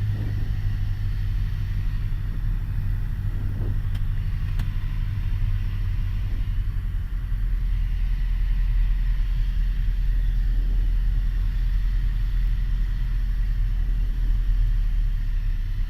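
Piper Warrior's four-cylinder Lycoming engine and airframe droning steadily in the cockpit on final approach. About halfway through, the even engine hum gives way to a rougher, slightly louder low rumble.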